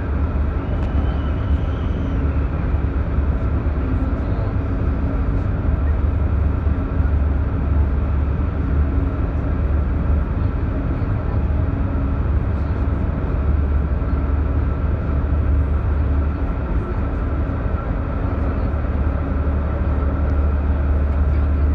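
Passenger train running at speed, heard from inside the carriage: a steady low rumble of the wheels and running gear, with a few faint steady tones above it.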